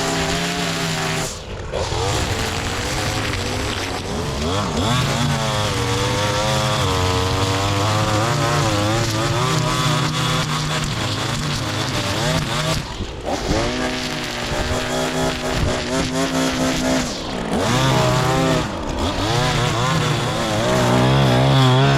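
Small gas engine of lawn-care equipment running, its pitch rising and falling as it is throttled, broken by a few brief cuts.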